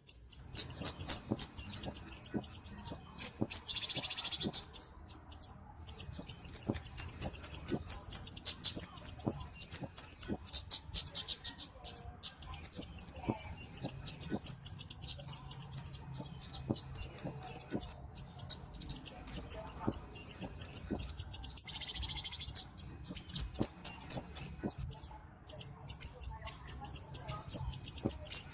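A flowerpecker (cabe-cabean) calling: rapid, high-pitched chipping twitters in runs of a few seconds with short pauses, and twice a brief harsher rasp.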